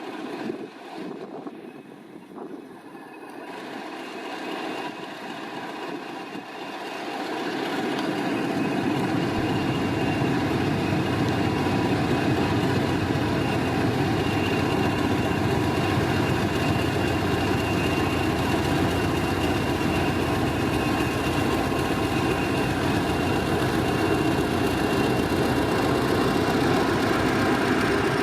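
English Electric Class 20 diesel locomotive engine running. It grows louder over the first several seconds and then holds steady, with a thin high whine over the engine note.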